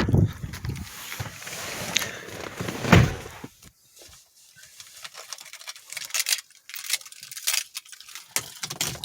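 A heavy thud about three seconds in, then keys jangling and scattered small clicks in a quiet car cabin before the engine is started.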